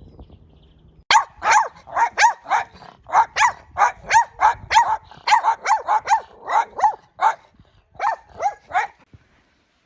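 Dog barking in a rapid, steady run of short barks, about three a second, then a short break and three more barks near the end.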